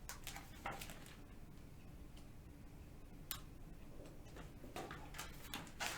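Faint, irregular clicks and taps over quiet room tone, the sort of handling noise made while opening and holding a book, with a sharper click about three seconds in and a few more near the end.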